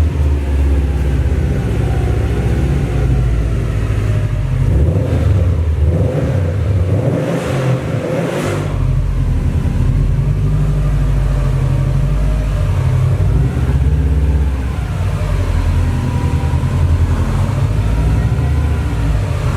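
Subaru WRX STI's turbocharged flat-four engine running with a steady low rumble, easing briefly about seven seconds in while a hiss rises, then settling again.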